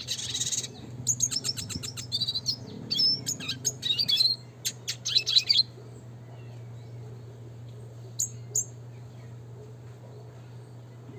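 Red siskin singing a fast, dense run of chirps and rolling trills for about five seconds, then breaking off, with two short chirps a few seconds later. A steady low hum runs underneath.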